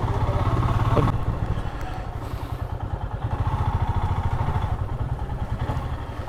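Motorcycle engine running at low speed, with a steady, evenly pulsing low exhaust beat.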